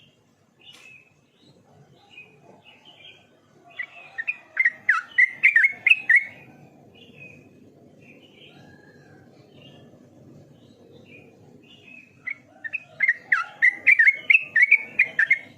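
Yellow-vented bulbul (trucukan) singing: two loud runs of rapid warbled notes, one about four seconds in and one near the end, with scattered short calls between.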